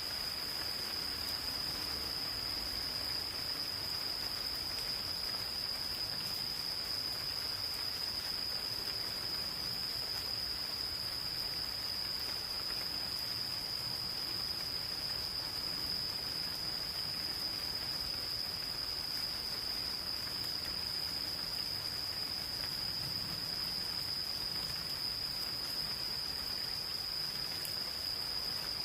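Insects calling in one steady, unbroken high-pitched trill over the soft, even hiss of light rain in a forest.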